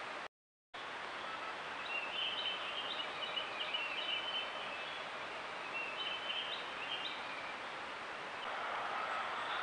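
Small birds chirping and twittering in short, repeated calls between about two and seven seconds in, over a steady hiss, with a brief gap of silence just after the start.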